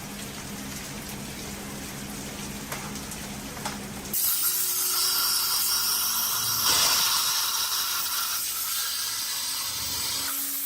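A steady hum with background noise, then about four seconds in a high-pressure jet starts suddenly and hisses loudly, with a thin whistle in it, until just before the end.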